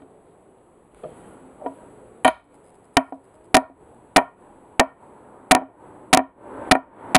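A series of sharp, hollow knocks, about nine in all and roughly every 0.6 s, beginning about two seconds in.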